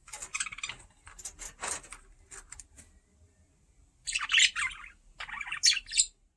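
Budgie chirping and chattering in short bursts, with two louder runs of warbling chatter in the second half.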